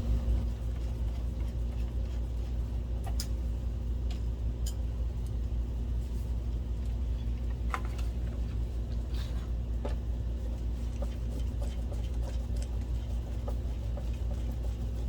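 Scattered light metal clicks and taps as screws are fitted and driven into a DLP projector's optic assembly, over a steady low hum.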